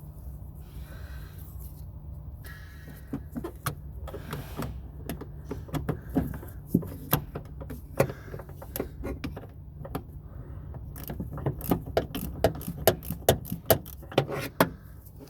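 Irregular light clicks and knocks, coming thicker near the end, over a steady low hum.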